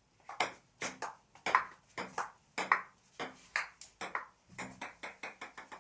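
Table tennis rally: a celluloid-type ball clicking off bats and table in a steady back-and-forth, about two hits a second, running into a quickening string of short bounces near the end.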